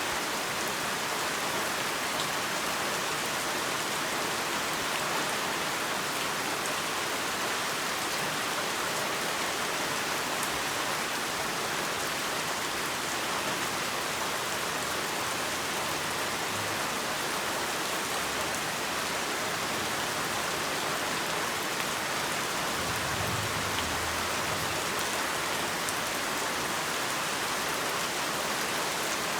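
Heavy rain falling steadily, an even hiss with faint drop clicks, and a faint low rumble about two-thirds of the way through.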